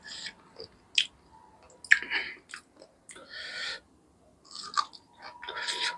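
A man biting and chewing chicken kosha eaten by hand, close to the microphone: a run of short, irregular chewing and biting sounds with sharp mouth clicks.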